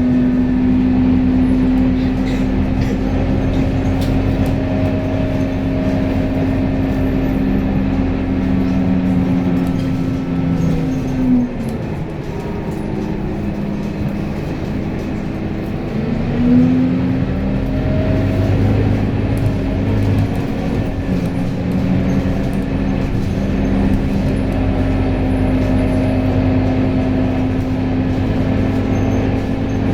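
A vehicle running with a steady, loud motor hum. Its pitch sinks and fades about eleven seconds in, then rises back to the same steady note about five seconds later, as when it slows and speeds up again.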